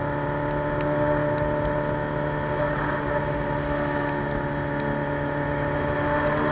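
Suzuki Bandit 600's carbureted inline-four running through a straight-pipe sport exhaust, holding a steady engine note.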